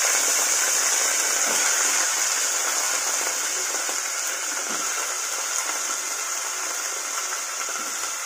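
Diced potatoes sizzling in hot oil in a pot on a gas burner: a steady hiss that slowly fades as the oil cools from the added potatoes.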